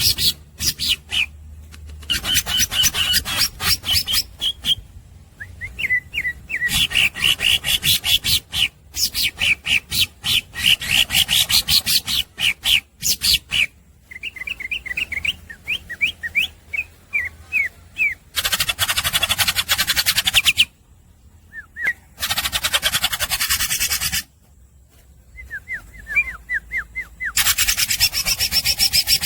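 Cucak ijo (green leafbird) singing nonstop: fast runs of sharp repeated chirps and whistled notes, broken three times by long harsh, rasping rattles.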